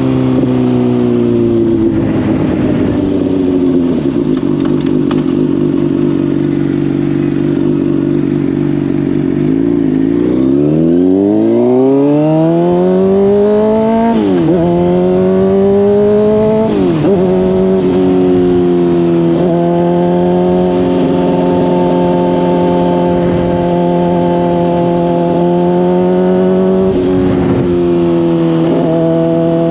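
Honda CBR600RR's inline-four engine through a slip-on exhaust while riding. The engine note eases down and holds steady, then climbs as the bike accelerates about ten seconds in, with quick dips in pitch as it shifts up through the gears, and settles into a steady cruise.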